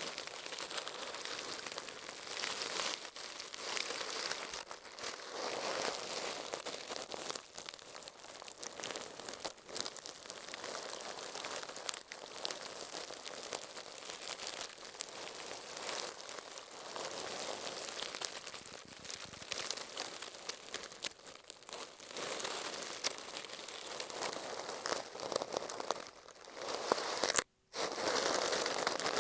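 Shaving brush bristles brushing and scratching over masking tape on an earphone microphone: a steady, close crinkling rustle, with a brief full dropout near the end.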